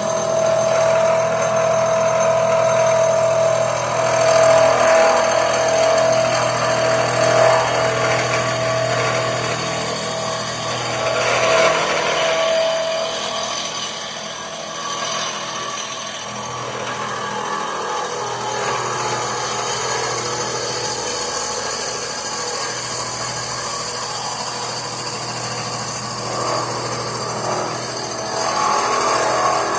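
A power tool running with a steady whine that drops away about halfway through, the running noise carrying on after.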